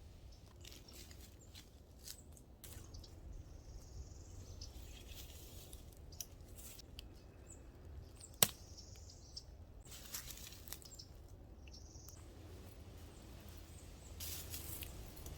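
Faint rustling and scattered clicks of someone climbing into and settling in a camping hammock, with one sharper click about eight seconds in. Soft bird chirps can be heard in the background.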